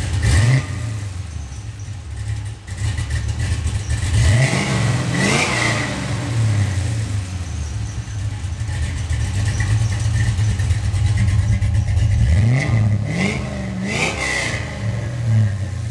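LS-swapped 6.0-litre V8 with a Sloppy Stage 2 cam, idling and revved in short blips: once at the start, once about five seconds in, and twice more between about twelve and fifteen seconds in.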